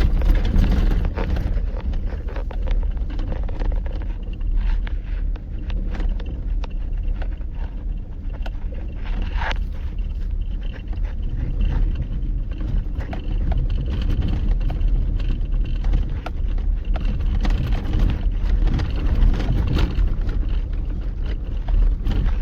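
Inside a GMC Sierra pickup's cab driving slowly over a rough dirt track: a steady low rumble of engine and tyres, with frequent small knocks and rattles from the truck jolting over the uneven ground.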